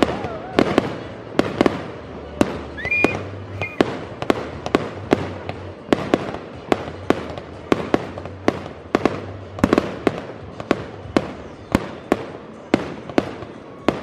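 Fireworks display: aerial shells bursting in a quick, steady run of bangs, about two a second. There is a brief whistle about three seconds in.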